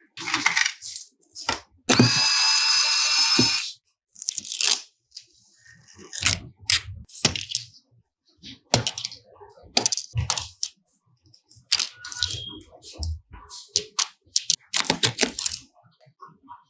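Hand and power tools working on a smartphone during a screen-glass repair: a run of short clicks, cracks and scrapes, with a small power tool whining steadily for about a second and a half near the start.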